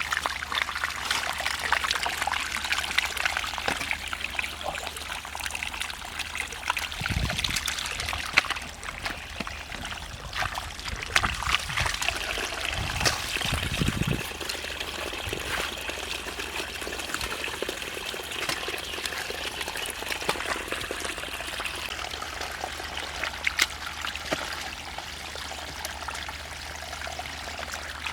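Water trickling and pouring steadily, with a few brief low thumps about seven seconds in and again around twelve to fourteen seconds.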